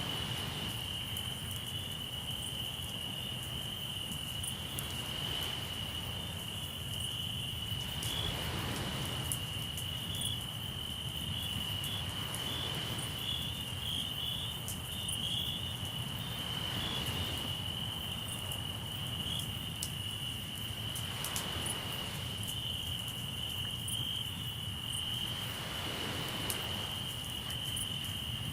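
Crickets trilling steadily and high, over waves washing in about every four to five seconds, with scattered small crackles from a campfire.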